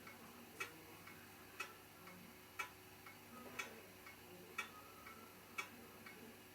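A clock ticking steadily, one sharp tick about every second, over a quiet room.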